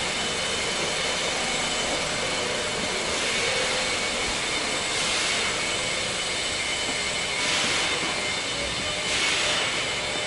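Toyota Hilux Surf SSR-X 4WD engine running with its exhaust note, a steady hissy rush that swells slightly a few times.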